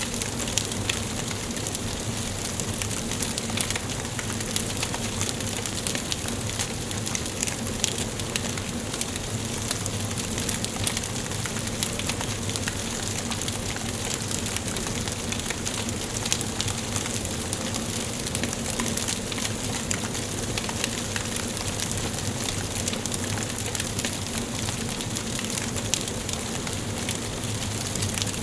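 Wood fire burning in a fireplace, with a steady hiss and frequent small, sharp crackles and pops.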